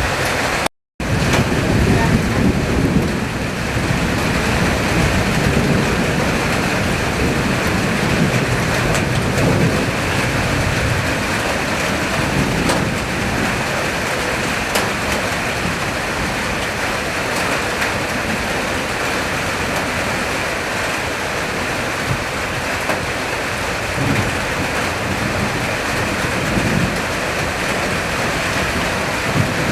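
Heavy rain from a summer thunderstorm falling steadily, with low rumbles swelling now and then beneath it. The sound breaks off completely for a moment about a second in.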